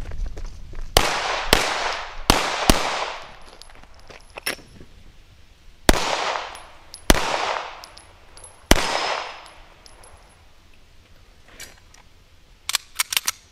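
Seven pistol shots from an Arsenal Firearms Strike One, fired in uneven groups: two quick pairs, then three spaced single shots. Each shot rings out with a long echo. Light metallic clicks of gun handling follow near the end.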